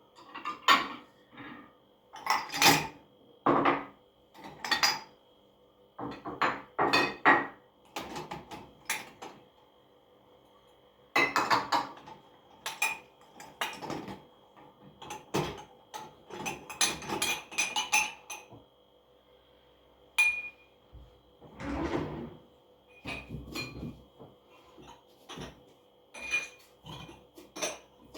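Dishes and cutlery being handled: a long run of separate clinks and knocks with short pauses, some leaving a brief ring.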